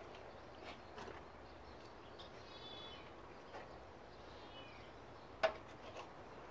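Quiet outdoor ambience with faint bird calls: a short warbling call about two and a half seconds in and a brief falling call about four and a half seconds in. A sharp click about five and a half seconds in is the loudest sound.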